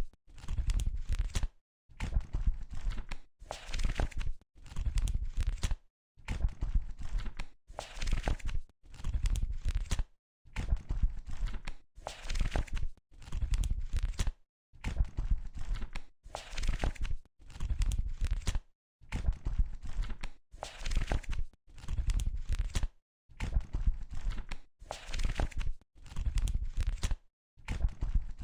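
Paper pages of a book being turned one after another, about one page a second: each turn is a short papery rustle, separated from the next by a brief gap of silence.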